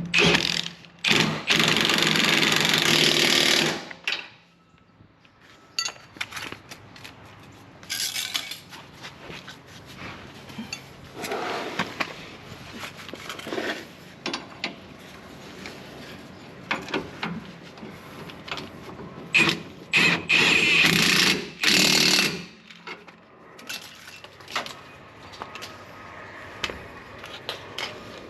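Impact wrench run in several bursts, the longest about three seconds near the start and a cluster later on, tightening the bolts of a pickup's new rear shock absorbers. Scattered clinks of tools and parts fall in between.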